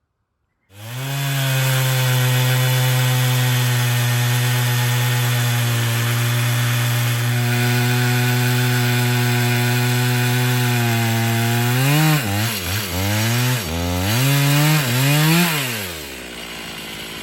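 Chainsaw on an Alaskan chainsaw mill ripping a log lengthwise, starting about a second in and holding a steady high pitch under load. About twelve seconds in the engine pitch swings up and down several times, then drops to a quieter idle near the end.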